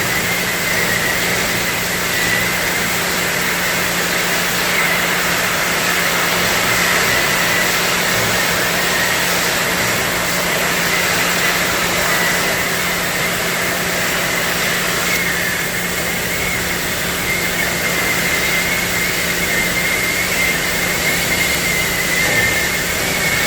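Steady hiss of a CNC cutting machine's torch cutting steel plate, with a slightly wavering high whine and a low steady hum under it.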